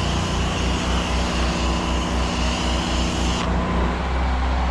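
Engine of a pressure-washing rig running steadily with an even low pulse, under a hiss that cuts off sharply about three and a half seconds in.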